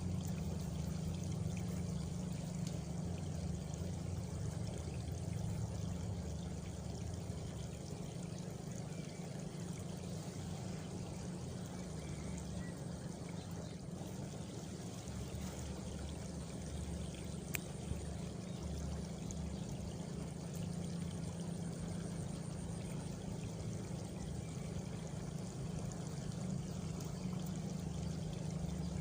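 Countryside night chorus of crickets and frogs: a steady, continuous wash of sound, with a faint high insect trill rising above it about two-thirds of the way through and a single click near the middle.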